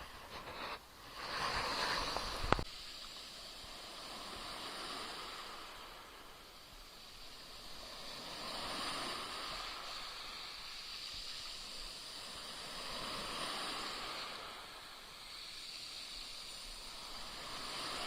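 Small Black Sea waves washing and splashing at the shore, swelling and fading every four seconds or so. A louder wash comes at the start, ending in one sharp click about two and a half seconds in.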